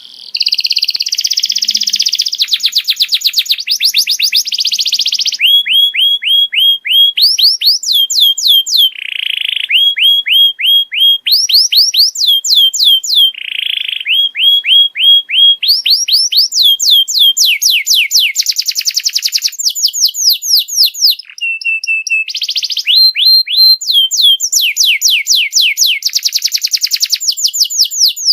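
Domestic canary singing a continuous song of rolls and trills. Each phrase is a quick run of repeated notes that sweep upward, several a second, and a new phrase type follows every second or two without a break.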